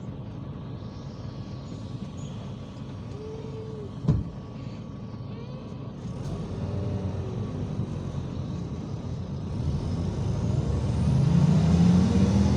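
IVECO Crossway 13M PRO city bus heard from on board: the engine runs low and steady, with a sharp thump about four seconds in. Near the end the engine grows louder and climbs in pitch as the bus accelerates.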